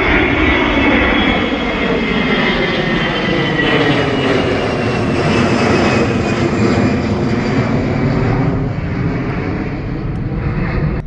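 Airliner passing close, a loud, steady engine noise with a whine that slides slowly down in pitch as the aircraft goes by.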